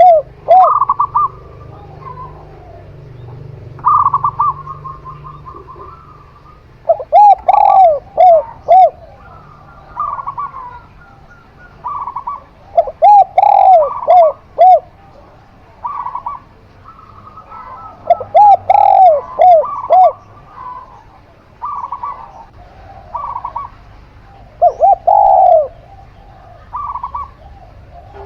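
A zebra dove (perkutut) and a spotted dove (tekukur) cooing in turn. Runs of four or five loud, arched coos come every five or six seconds, with shorter, higher trilling coos between them.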